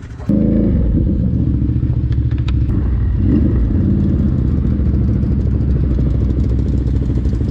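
Quad (ATV) engine running close by, coming in suddenly loud just after the start and then running steadily.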